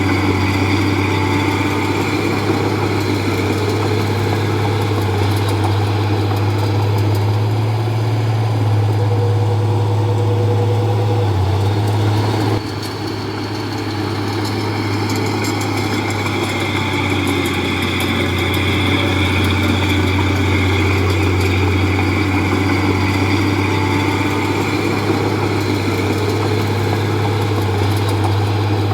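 Diesel engine of a Komatsu D31P crawler bulldozer running steadily with a deep hum. About twelve seconds in the level drops suddenly, then builds back up over the next few seconds.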